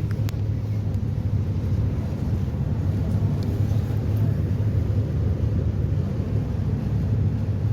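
Steady low drone of a passenger catamaran ferry's engines running under way.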